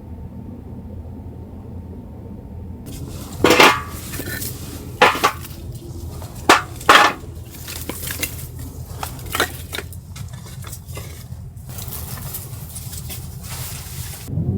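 Cookware and utensils being handled and set down, with several sharp clinks and knocks over a steady low rumble.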